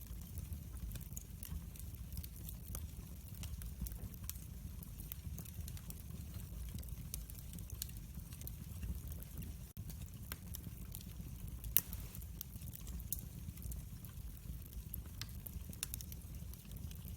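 Wood fire in a fireplace crackling, with irregular sharp pops over a steady low rumble. One louder pop comes a little before the end.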